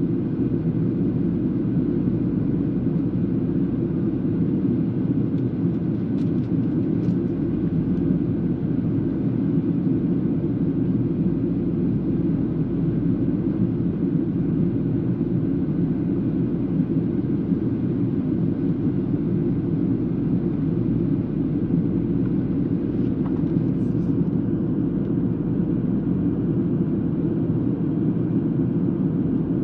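Steady, unchanging rush of engine and airflow noise inside a Boeing 737-800 cabin on approach, heavy in the low range.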